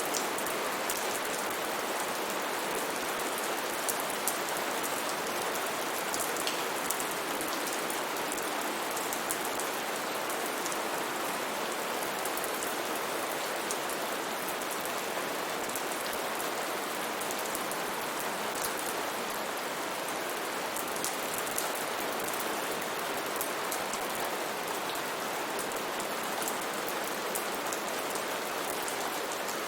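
Steady rain falling, with many small drop taps over an even hiss.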